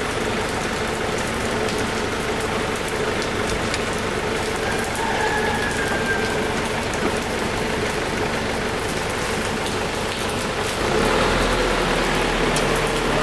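Steady rain hissing, with an engine running in the background. About eleven seconds in, a deeper engine hum comes in and the sound gets louder.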